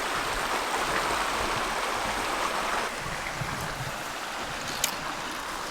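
Rushing of a mountain river over rocks: a steady hiss that drops a little in level about three seconds in, with one brief click near the end.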